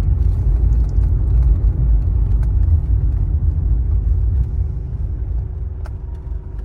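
A car on the move: a steady low rumble of engine and road noise, with a couple of faint clicks.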